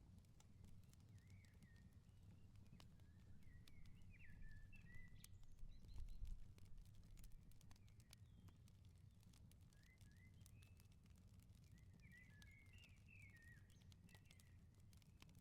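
Faint crackling of a wood fire, with scattered sharp pops, over a low rumble. Birds chirp in short bursts of phrases, about a second in, again from about 3 to 5 seconds, and twice more in the second half.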